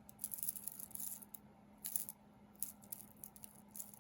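Glass beads on a stretch bracelet clicking and rattling lightly against each other as it is handled, a scatter of small clicks that thins out after about a second and a half.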